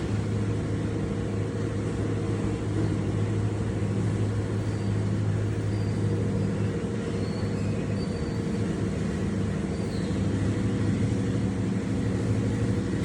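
Steady low mechanical hum, with a few faint, short high chirps in the middle.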